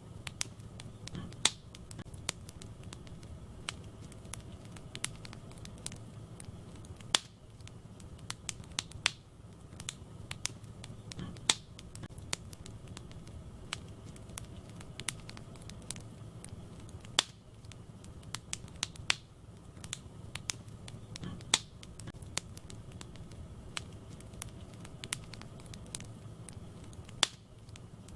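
Wood fire burning in a fireplace: sharp, irregular crackles and pops over a low, steady rumble of the flames.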